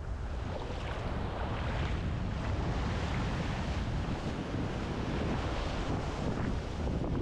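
Wind buffeting the microphone with surf washing in, a steady rumbling noise throughout.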